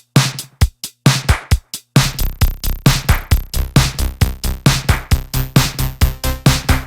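Electronic music from a Behringer UB-Xa analog polysynth, with chorus and reverb: short, percussive notes, sparse with gaps at first, then about two seconds in a fast, even rhythmic pattern with a steady bass line starts up.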